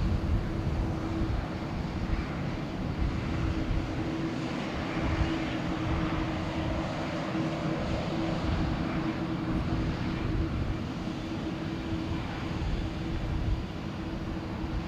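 Jet airliner's engines during takeoff: a steady noise with a low rumble that rises and falls and a constant hum-like tone running through it.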